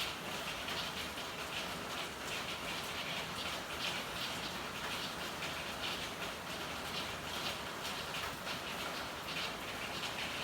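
Steady rain falling in an alley, a dense patter of drops with a brighter spattering layer on top.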